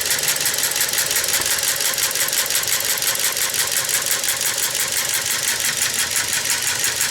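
1908 Matheson engine turned over unpowered by a belt-driven sewing machine motor, with the camshaft at about 350 RPM: a steady, rapid mechanical clatter from the cam-driven make-and-break igniter trippers and hammers working in each cylinder.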